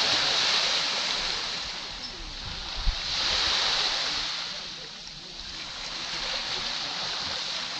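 Small Caribbean sea waves washing onto a sandy beach, the surf swelling and fading in slow surges about three times, with one brief low thump just before three seconds in.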